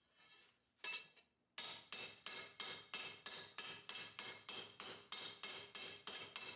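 Hammer blows on a hot katana blade on the anvil, straightening out lateral kinks: a single strike about a second in, then a steady run of ringing metallic strikes, about three a second.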